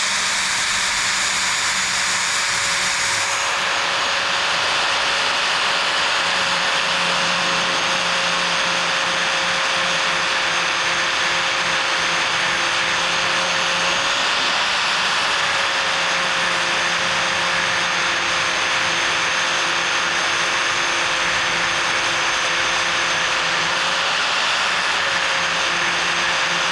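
Electric grinder running steadily and grinding down the pin of a go-kart chain link: a constant motor whine under a harsh grinding hiss that grows louder about three seconds in, the pitch sagging slightly under load a couple of times. The steel gets hot enough to turn blue.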